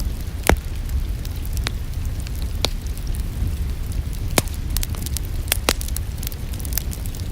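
Wood fire crackling with a handful of loud, sharp pops over a steady low rumble, with rain falling steadily alongside.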